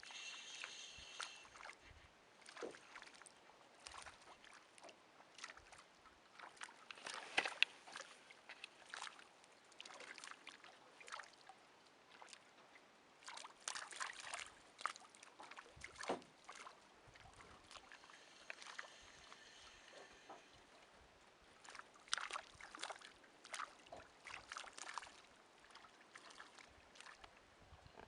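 A school of baitfish splashing at the water surface, the water boiling with fish: many small, irregular splashes and patters that come in flurries.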